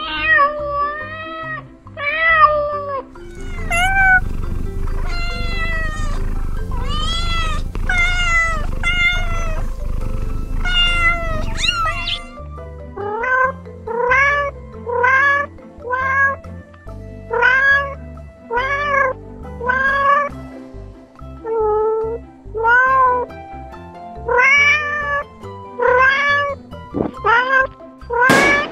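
Domestic cat meowing over and over: a long string of short meows, each rising and then falling in pitch, often more than one a second, over background music.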